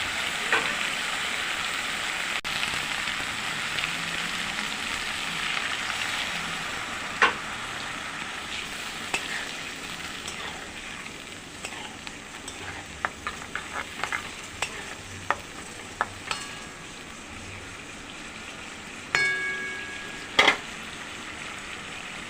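Yogurt-and-cashew-paste masala sizzling in a hot kadai while a spatula stirs it, clicking and scraping against the pan. The sizzle is steady at first and fades after about eight seconds. Near the end a metal utensil clanks with a ringing tone, then knocks twice on the pan.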